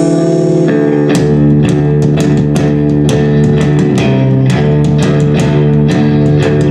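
Live rock band playing, with guitar and bass holding sustained chords; regular sharp percussive hits join about a second in.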